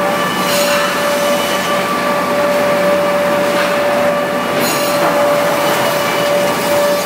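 REX woodworking planer running steadily with a constant high whine over a broad machine noise, with two short spells of sharper hiss, about half a second in and again near five seconds.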